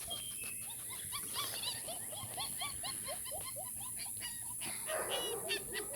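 Young puppies squeaking and whimpering, a steady run of short high squeaks at about three to four a second.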